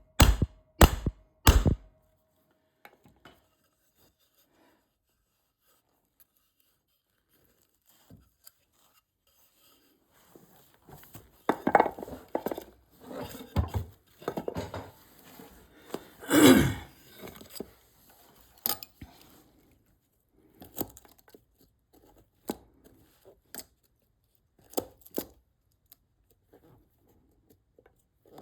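Three sharp knocks on wood in the first two seconds. After a long pause, hand tools and wood clatter and scrape as they are handled, loudest about halfway through, then a few scattered clicks.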